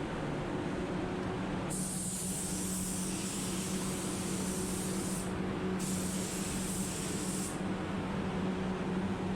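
Paint spray gun spraying clear coat in two passes: a steady high hiss about 1.7 s in, a brief break after about three and a half seconds as the trigger is released, then a second shorter pass that stops near the end. A steady low hum runs underneath.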